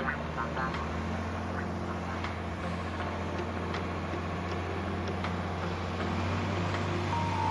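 Farm tractor engine running steadily under way, a low even hum.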